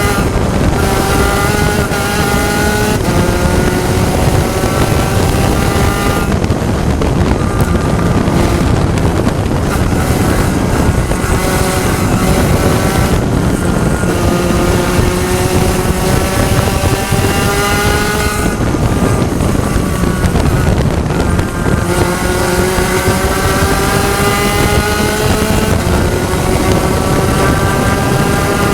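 Spec Racer Ford race car engine heard from on board, pulling hard with its pitch rising steadily and dropping sharply at each upshift, several times over. There is wind noise on the microphone throughout.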